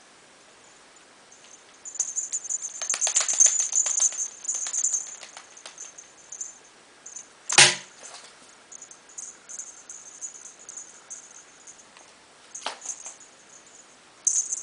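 Scratchy rustling and rapid clicking in bursts, with one sharp knock about seven and a half seconds in and a smaller one near thirteen seconds.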